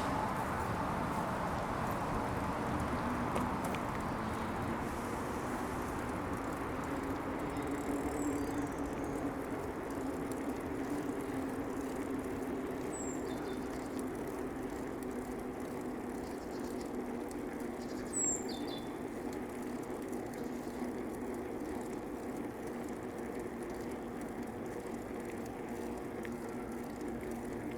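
Bicycle rolling steadily along a paved path, with a continuous hum of tyre noise. A few short, high chirps from birds come through, three times, the loudest about two-thirds of the way in.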